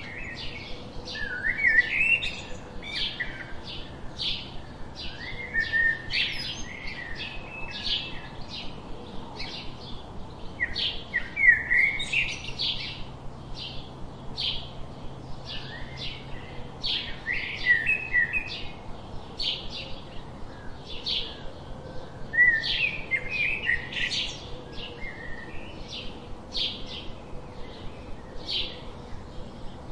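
Birds chirping and singing: a steady run of short, high chirps, about three a second, with a louder warbling phrase every few seconds.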